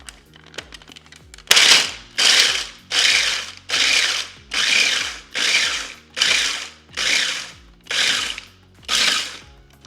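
A blender pulsed about ten times in quick succession, each half-second whir chopping pork rinds into crumbs. The pulses start about a second and a half in and come at a steady rhythm.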